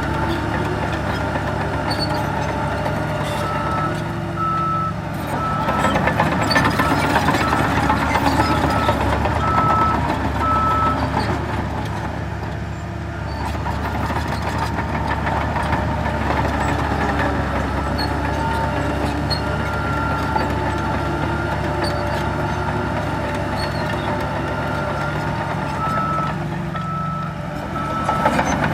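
Heavy diesel earthmoving machinery running, with a reversing alarm sounding evenly spaced high beeps about once a second, on and off through the stretch. It gets louder and rougher for a few seconds near the start.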